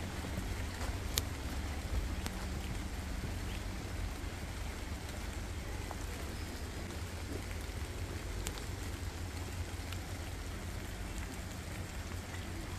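Steady rain falling, with a few sharp drips landing close by.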